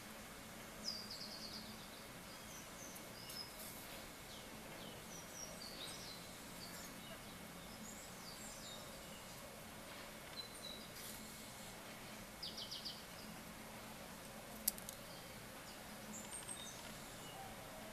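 Faint steady background hiss with small birds chirping on and off, high and brief, including two quick trills. A single sharp click sounds late on.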